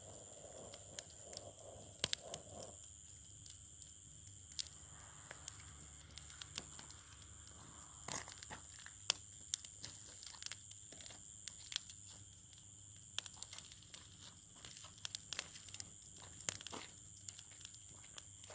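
Campfire crackling, with irregular sharp pops and snaps of burning wood over a faint steady hiss.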